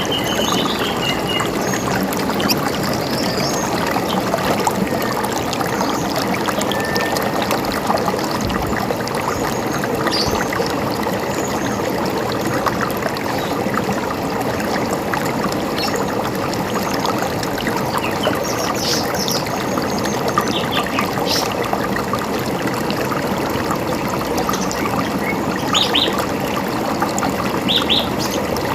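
Steady rush and gurgle of a running river, with occasional short high bird chirps above it, a few right at the start and more in clusters later on.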